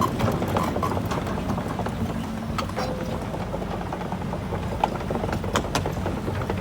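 Caterpillar hydraulic excavator's diesel engine running steadily, with a scattering of short sharp clicks and knocks.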